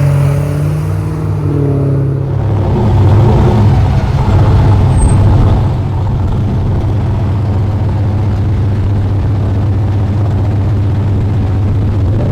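Car engines running with a heavy low rumble, swelling louder for a couple of seconds about three seconds in, then settling to a steady drone.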